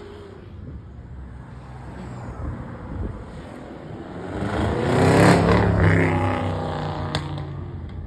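A car's engine accelerates and passes close by, loudest a little over five seconds in and then fading, with other car engines running at low revs around it.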